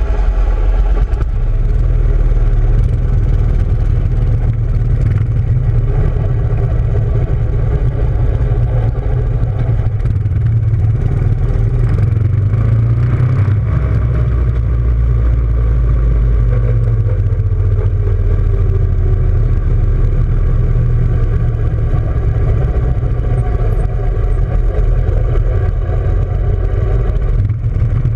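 Off-road motorcycle engine running with a heavy low rumble, its pitch rising and falling faintly as the throttle is worked.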